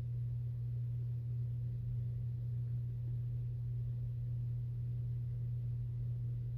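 A steady, unchanging low-pitched hum, one even tone with no other sounds over it.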